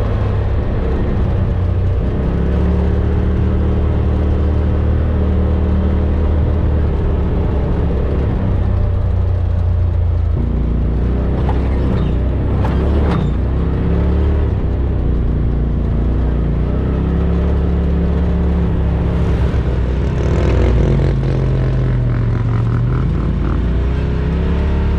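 Side-by-side UTV engine running, its pitch rising and falling with the throttle, with a few short knocks about halfway through.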